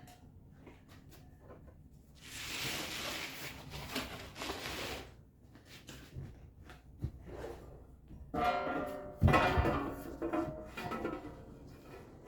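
Workshop handling noise: a few seconds of cardboard rustling and scraping, then near the end a heavy knock with a brief metallic ringing, as of the metal seat base being moved.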